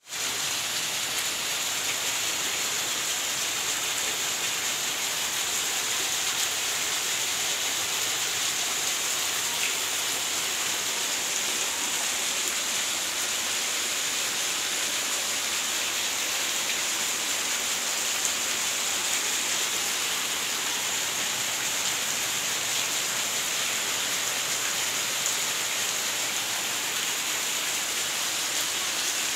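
Heavy rain falling in a steady downpour, a dense even hiss of drops on surfaces.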